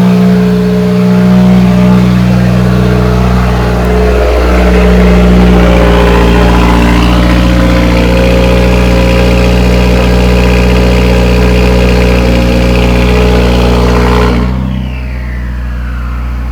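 2015 Subaru WRX turbocharged flat-four idling through a catted J-pipe and 3-inch straight catback with no muffler, a very loud, raspy, steady exhaust note. About two-thirds of the way through it suddenly drops to a quieter, lower idle.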